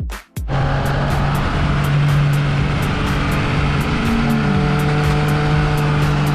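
Yamaha XSR900's three-cylinder engine heard from on board, starting about half a second in and running at a steady, even pitch with no revving.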